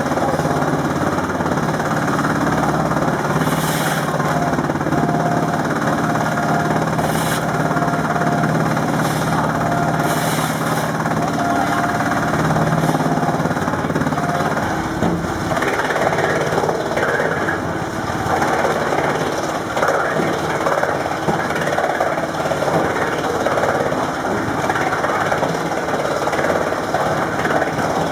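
Stationary electric drum wood chipper (Skorpion 500 REF) running and chipping wood, a loud continuous machine noise with a steady low hum. About halfway through the hum fades and the sound turns rougher and more irregular.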